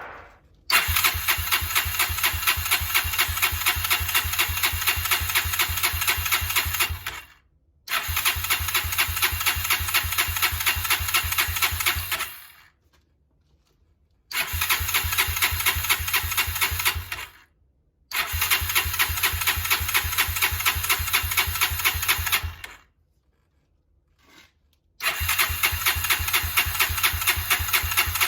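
A Honda GB250's electric starter cranking its single-cylinder four-stroke engine in five separate attempts of a few seconds each. Each attempt has a steady pulsing rhythm and stops without the engine catching: a no-start, which the video traces to the kill switch being left off.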